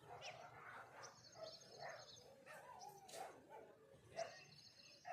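Faint morning birdsong: assorted birds chirping, with two high rapid trills, one about a second in and one near the end, and lower warbling calls in between.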